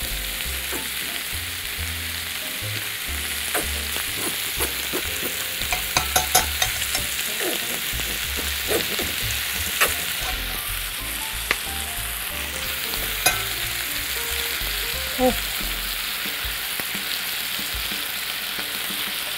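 Bacon and chopped onion sizzling in a cast-iron pot, the heat turned down, with scattered light clicks and taps from the utensils, several in a row about six seconds in.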